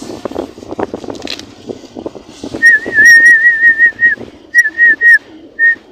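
A person whistling a steady, slightly warbling high note to call pigeons: one long whistle about halfway in, then four short whistles. Before the whistling there are soft clicks and rustling.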